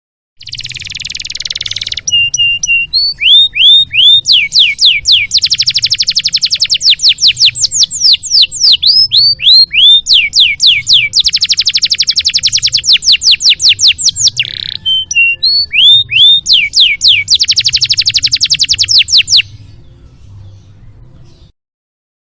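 Domestic canary singing a long song for a masteran (training) recording. It opens with a harsh rasping phrase, then runs through fast rolling trills and repeated downward-sweeping whistled notes. A steady low hum lies beneath.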